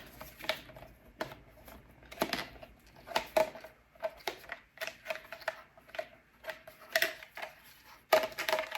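Small plastic household items being handled: irregular clicks and taps, a few a second, loudest near the end.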